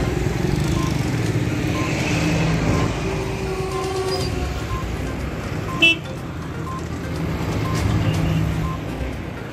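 Passenger train hauled by an electric locomotive, running with a steady low rumble, and a brief sharp toot a little before six seconds in.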